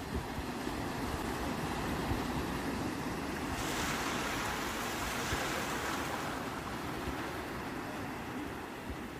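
Sea waves washing on the shore in a steady surf hiss. One wave surges more loudly about a third of the way in and then fades. A low rumble of wind on the microphone runs underneath.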